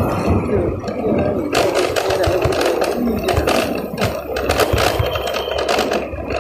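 Motorcycle riding along: the engine running under a steady rumble of wind and road noise, with a run of sharp clicks and rattles from about a second and a half in until near the end.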